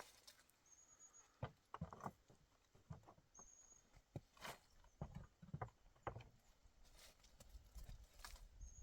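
Near silence broken by faint, irregular knocks and taps, with a few brief high chirps.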